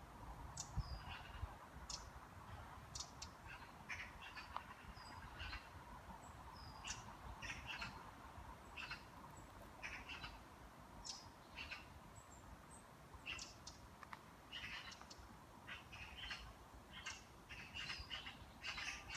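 Small songbirds chirping and singing, many short, quick calls following one another without a break.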